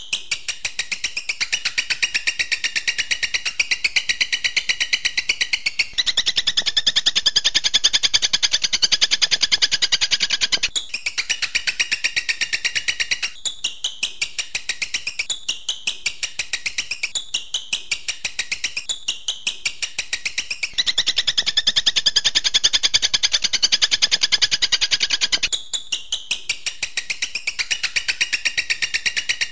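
Songbird training recording (masteran): a rapid, evenly spaced stream of high chirping notes, machine-gun-like 'tembakan' bursts, repeated without pause. The pattern switches abruptly every few seconds as recorded segments are spliced together.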